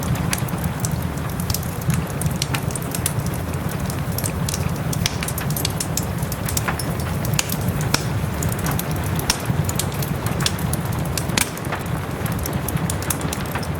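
Wood fire crackling in a fireplace, with frequent sharp pops and snaps over a steady low rumble, and soft rain falling behind it.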